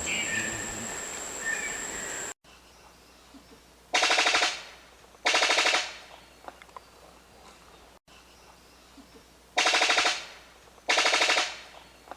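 Brown sicklebill calling: rapid machine-gun-like rattles, each about half a second long. They come in two pairs, the second pair about five and a half seconds after the first. Before them, a different recording with a steady high tone cuts off abruptly about two seconds in.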